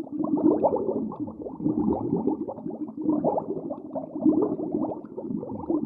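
Farm animals making a dense run of short, low, muffled calls and feeding noises.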